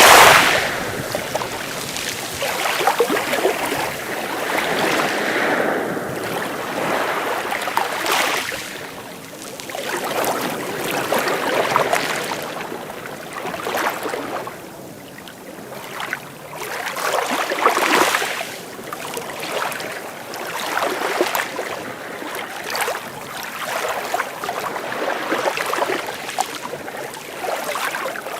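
Sea waves washing onto the shore, a rushing hiss that swells and falls back every few seconds, with the strongest surges at the start and about 8, 12 and 18 seconds in.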